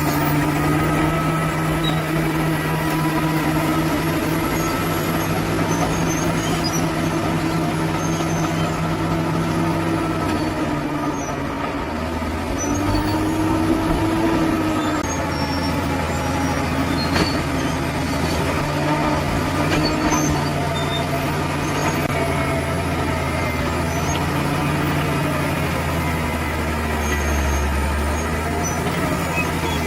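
Bulldozer's diesel engine running steadily under load, its note sagging and recovering as the load changes, with a brief dip about halfway through.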